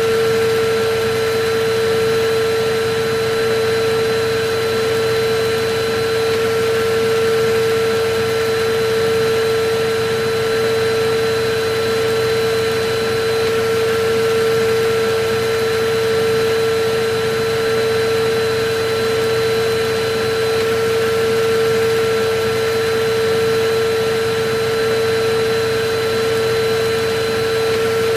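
Electric vacuum cleaner running steadily, its motor whine holding one steady pitch over a constant rushing of air.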